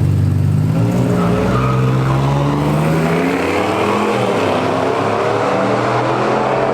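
Pickup trucks racing: engines held low, then climbing in pitch from about a second in as they accelerate hard, with several rising engine tones overlapping.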